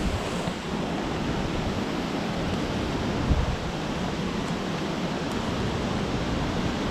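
Wind blowing across the camera's microphone: a steady rushing noise with a heavy low rumble, and a brief stronger gust about three seconds in.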